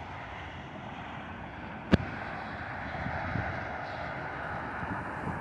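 Boeing 747-400 freighter's jet engines heard from a distance, a steady rushing hiss, with one sharp click about two seconds in and a few low wind buffets on the microphone.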